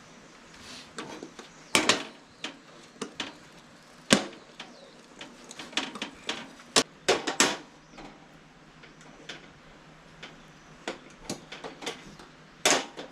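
Irregular sharp clicks and knocks of tableware and food being handled during a meal, loudest about two, four, seven and twelve seconds in.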